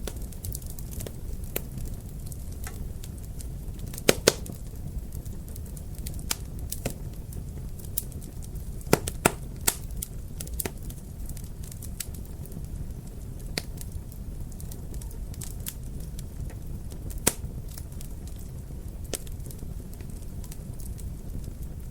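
Wood fire crackling in a fireplace: a steady low rumble of burning, with frequent small crackles and a few sharp, louder pops scattered irregularly.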